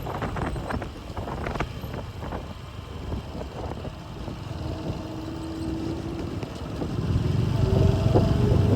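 Motorcycle engine running at low speed through a right turn, getting louder about seven seconds in as the bike speeds up.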